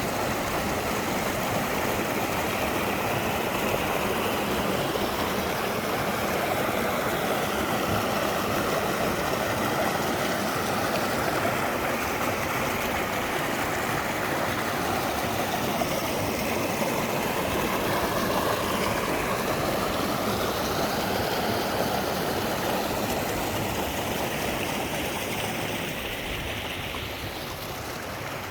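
Stream water flowing steadily, a little quieter near the end.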